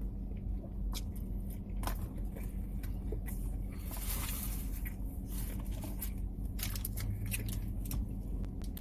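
Close-miked chewing and mouth sounds of someone eating, with many small clicks and smacks and a short rustle about four seconds in, over a steady low hum.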